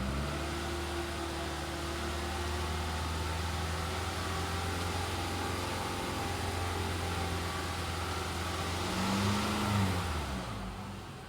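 Toyota Camry 2.5-litre four-cylinder engine idling steadily. About nine seconds in it is blipped once, rising and falling in pitch, and then its sound falls away near the end.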